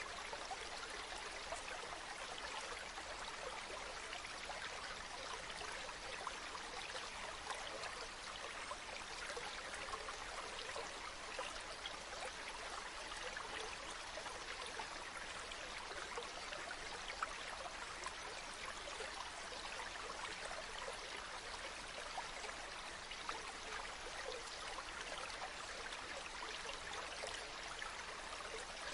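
Small stream of running water, babbling and trickling steadily with no breaks.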